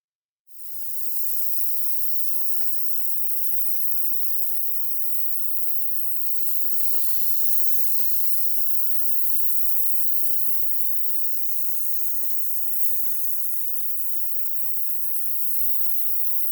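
Paint spray hissing steadily. It starts about half a second in and cuts off abruptly at the end.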